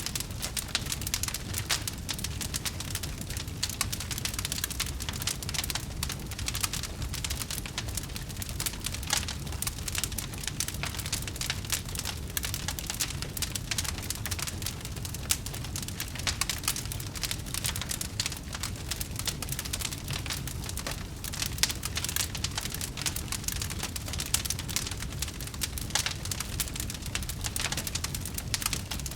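Wood fire burning with dense, continuous crackling and small pops over a low steady rumble of flame.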